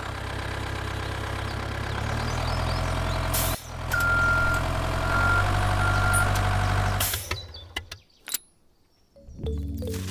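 A truck or tractor engine sound running steadily and growing louder, stepping up in pitch twice, with three short high beeps about four to six seconds in. It cuts off suddenly about seven and a half seconds in; after a brief quiet gap a new steady sound starts near the end.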